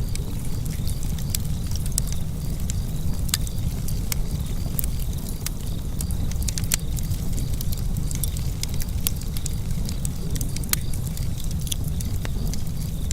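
Wood fire in a fireplace crackling, with frequent sharp irregular pops and snaps over a steady low rumble of burning.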